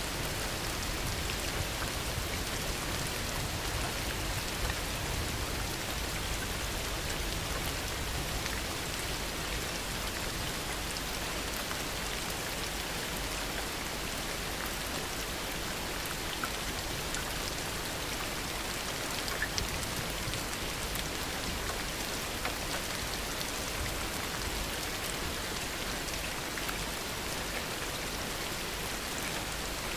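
Heavy rain falling steadily, with scattered individual drops ticking sharply above the constant hiss.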